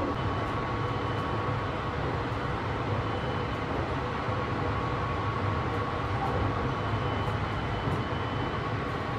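Steady running noise inside a carriage of the Sunrise Seto sleeper train: a low rumble with a faint steady high tone over it.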